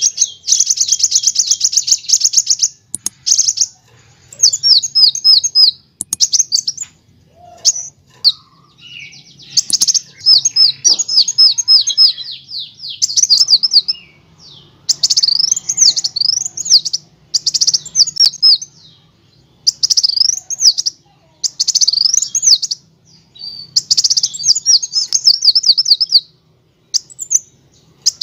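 Kolibri wulung (a sunbird) singing in repeated bursts of rapid, high trills and quick up-and-down sweeping notes, each phrase a second or two long with short pauses between, in the chattering, rolling style bird-keepers call nyrecek and ngerol.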